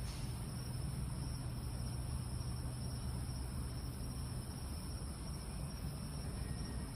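Steady night ambience: insects trilling in a continuous high band over a low, steady rumble.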